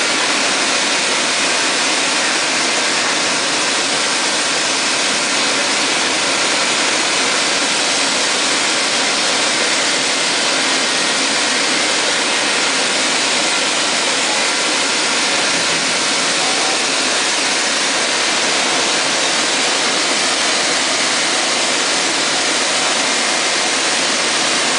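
In-place grinding rig resurfacing the steel riding rings of a large rotary dryer while the dryer keeps turning: a steady, even hiss with no breaks.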